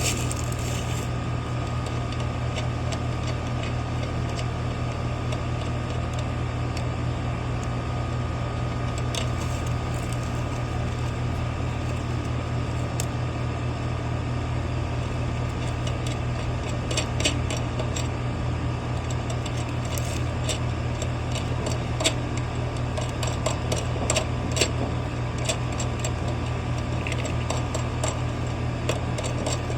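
Steady low mechanical hum with a thin steady whine above it, typical of air-conditioning equipment running. Scattered light clicks and taps come through it, more often in the second half.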